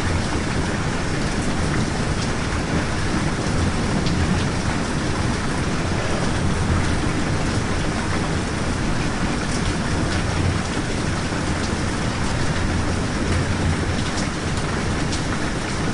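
Steady rain falling, an even hiss with a few sharper drop ticks scattered through it and a constant low rumble underneath.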